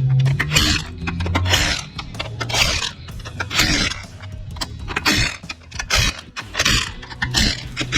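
Repeated rough scraping strokes, roughly one a second, over faint background music.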